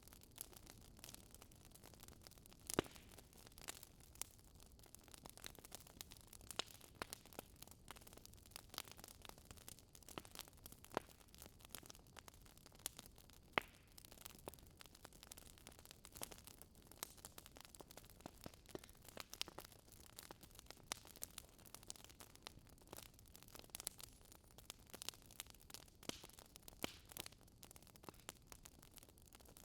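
Wood fire crackling softly in a fireplace: a steady faint hiss with many small irregular pops, two sharper pops about 3 and 13 seconds in.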